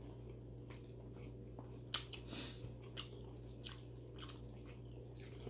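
Close-up chewing of grilled chicken inasal, faint, with a scatter of short mouth clicks from about two seconds in, over a steady low hum.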